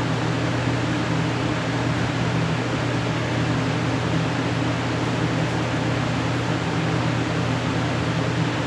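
Small-block Mopar 318 V8 running at a steady speed during its first break-in run after an engine swap, an even drone with no rises or drops.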